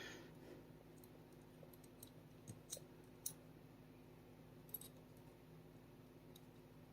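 A handful of faint, scattered clicks of small metal pistol parts and tools being handled while the trigger block safety is fitted into a Sig Sauer P365 frame.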